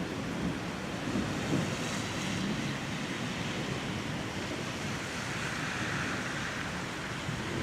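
Thunderstorm wind and rain making a steady rushing noise, with wind buffeting the microphone.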